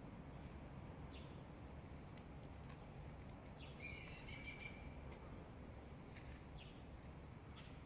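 Quiet outdoor ambience: a faint low rumble with scattered short bird chirps, the clearest a brief run of chirping about four seconds in.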